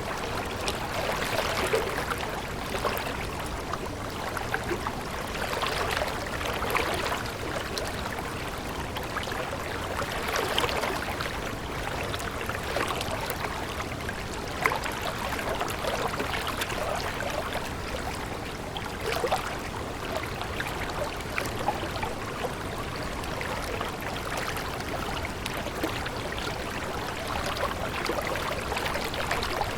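Stream water flowing and babbling steadily over stones, with a continuous rushing and many small splashes.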